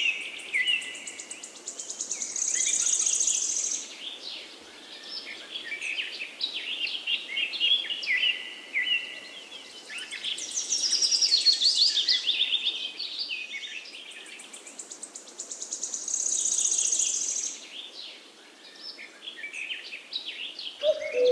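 Songbirds singing: varied chirps and warbled phrases, with a high, rapid trill that comes back several times.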